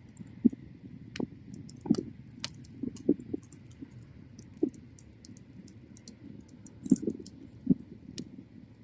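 Wood fire crackling and popping: irregular sharp snaps and softer low pops over a faint steady hiss.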